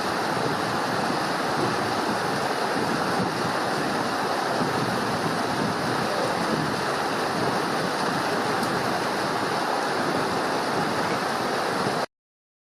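Steady rushing water with no let-up, ending abruptly near the end.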